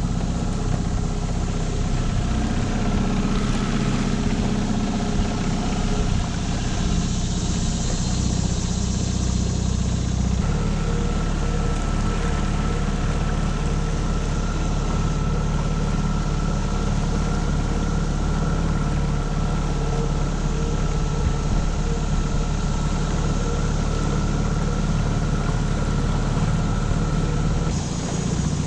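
Tohatsu 9.8 hp four-stroke outboard motor running steadily with the boat underway, with a hiss of water and wind. The engine note shifts about ten seconds in and changes again near the end.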